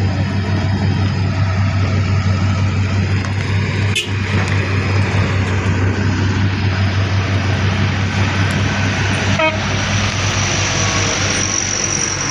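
Heavy diesel engine running steadily with a constant low hum, with a sharp click about four seconds in.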